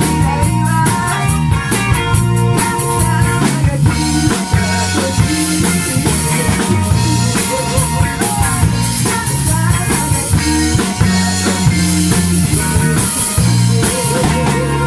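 A live band playing a Shōwa-era Japanese kayō pop song, with a drum kit keeping a steady beat under guitar.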